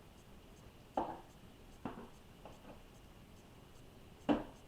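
Plastic fondant smoother scraping across wet acrylic paint on a stretched canvas in three short strokes: about a second in, near two seconds, and the loudest near the end.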